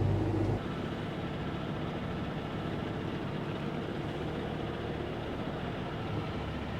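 Semi-truck diesel engine running steadily at low revs, heard from the cab; the low hum drops a little about half a second in and then holds even.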